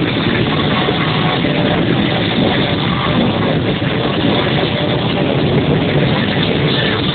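Many motorcycle engines running at once in a steady, dense mix of engine noise.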